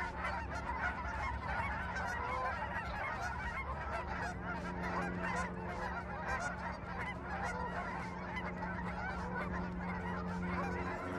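A large mixed flock of geese, mostly cackling and Canada geese, honking and yelping together in a dense, unbroken chorus of overlapping calls. A steady low hum runs underneath.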